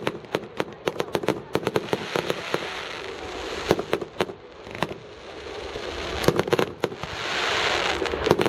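Fireworks going off: a rapid string of sharp bangs over a steady crackling hiss, swelling into a denser, louder crackle near the end.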